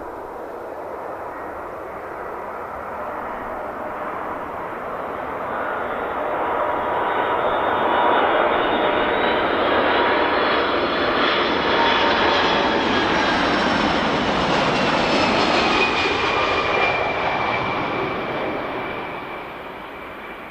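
Airliner's engines passing close by: the noise builds, is loudest for several seconds in the middle, then fades near the end, with whining tones that drop in pitch as the aircraft goes past.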